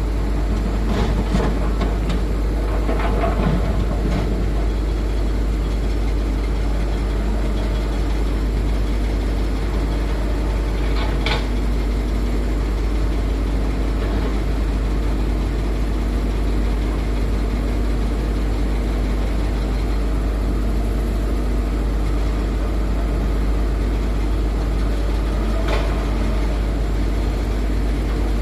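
Heavy diesel engines of a hydraulic excavator and a dump truck running steadily during loading. There are a cluster of sharp knocks in the first few seconds, another near the middle and one near the end.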